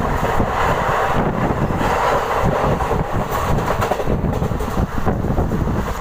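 Passenger train in motion heard from on board, a loud, steady running noise with wind buffeting the microphone.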